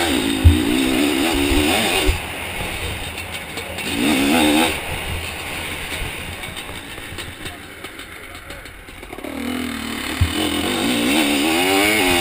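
Zabel 700 two-stroke sidecar motocross engine revving hard, its pitch wavering up and down with the throttle, loud at first, again briefly about four seconds in and from about nine seconds on, easing off in between. Two sharp thumps, about half a second in and near ten seconds.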